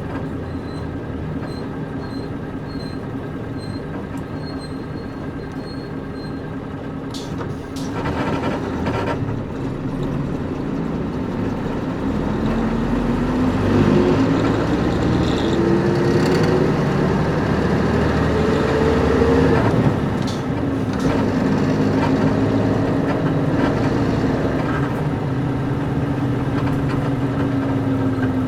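Inside a Nissan Diesel KC-UA460LSN bus: its diesel engine runs steadily, with a few sharp clicks about a third of the way in. Then the engine note climbs steadily for several seconds as the bus accelerates, drops back at a gear change, and holds steady.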